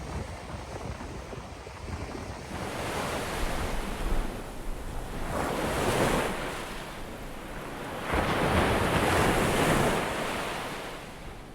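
Rushing noise of waves washing in, swelling twice: once about six seconds in and again near the end.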